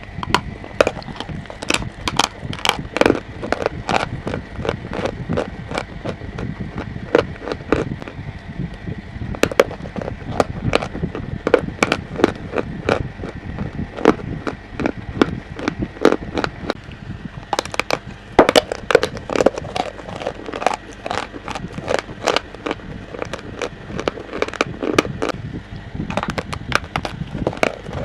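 Chalk being bitten and crunched close to the microphone: rapid, irregular crisp cracks and crumbling, several a second.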